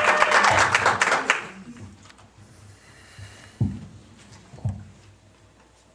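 Audience applause that dies away about a second and a half in, followed by two dull thumps about a second apart.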